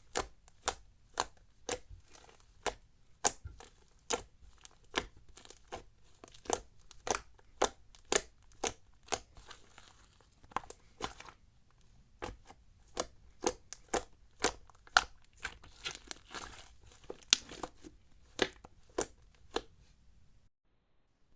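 Slime being worked by hand, giving a steady run of sharp sticky pops and clicks about two a second, with some softer crackling between them. The pops stop shortly before the end.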